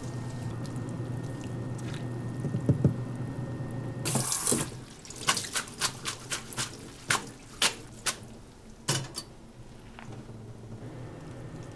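Kitchen sink work: a short gush of running tap water, then a string of sharp clinks and knocks of kitchenware being handled, over a steady low hum.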